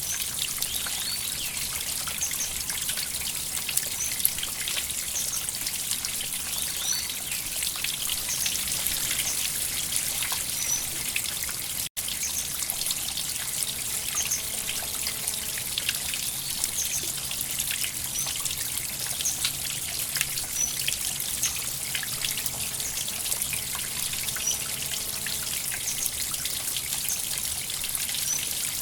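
River water flowing and trickling steadily, with many small splashes and drips. The sound cuts out for a split second about twelve seconds in.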